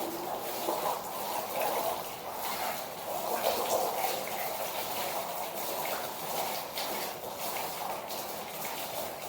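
Streams of milk squirting into a pail in repeated spurts as a buffalo is milked by hand.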